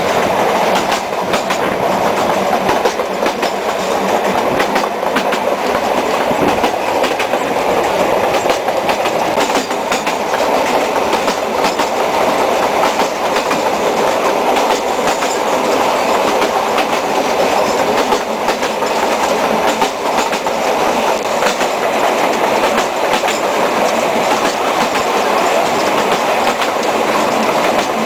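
Sóller railway train running along the track, heard from the open end platform of a wooden carriage above the coupling: a steady rumble of wheels on rail with scattered clicks, the clickety-clack of the moving train.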